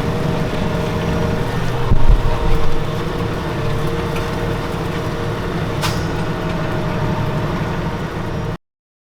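Valtra 191T tractor's diesel engine running steadily under load while pulling a plough. A couple of loud low thumps come about two seconds in. The sound cuts off abruptly near the end.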